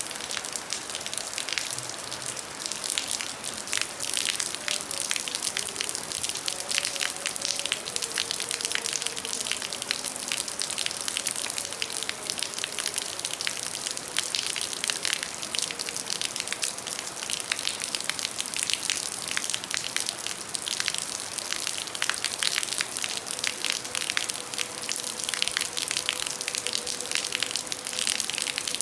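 Heavy rain falling steadily, a dense hiss packed with the ticks of individual drops striking.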